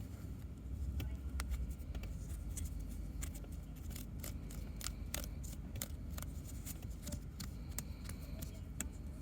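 Irregular small clicks and scratches from hands handling a plastic dryer-vent lint filter and wiping stuck lint off it, over a steady low rumble.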